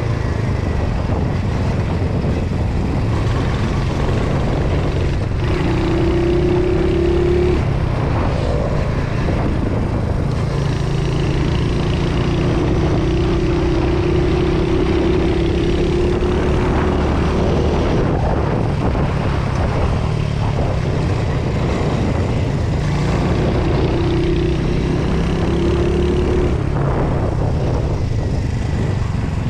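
Royal Enfield Hunter 350's 349 cc single-cylinder engine running through its stock silencer, its note shifting now and then. A higher steady hum comes and goes several times over it.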